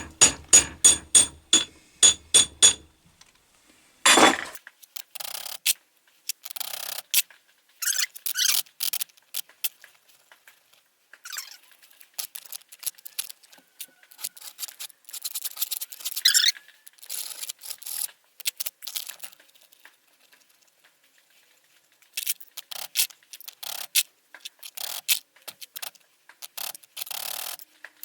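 Sharp metal-on-metal taps with a ringing note, about four a second, for the first few seconds, then a single knock. After that come irregular scraping, grating strokes of metal rubbing on metal as a stuck finger of an Atlas 10 lathe's fixed steady is worked out of its housing.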